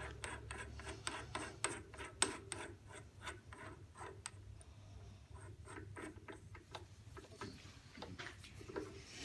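Faint, irregular small clicks and rubbing of metal on metal: a drill bit being fitted into a keyed drill press chuck and the chuck sleeve turned by hand to close the jaws.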